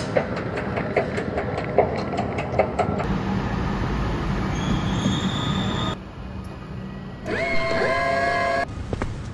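Melbourne Comeng suburban electric train at a station platform: a run of clicks over a rumble, then a faint high squeal, then a louder pitched whine that rises and holds for about a second and a half as the yellow door handle is pulled to open the door.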